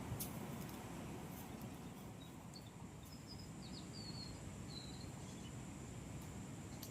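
Outdoor ambience: a steady low noise bed with a thin steady high tone, and a short run of small high bird chirps between about two and a half and five seconds in. A faint click comes right at the start.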